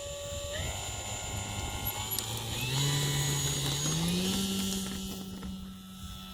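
Radio-controlled model Hawker Hurricane's motor and propeller running, its whine stepping up in pitch a few times as the throttle changes, then holding and growing quieter near the end.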